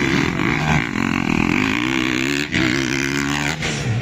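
Motocross motorcycle engine revving, its pitch rising and falling, with two brief drops in revs partway through.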